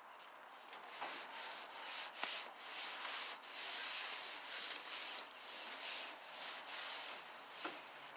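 Damp rag wiping down the outside of a gas grill: a run of rubbing strokes starting about a second in.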